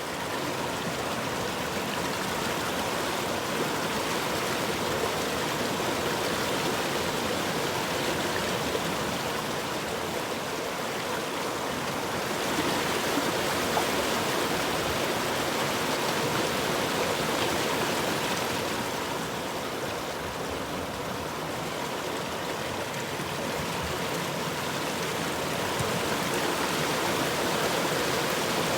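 River water flowing: a steady rushing that swells a little and eases again every several seconds.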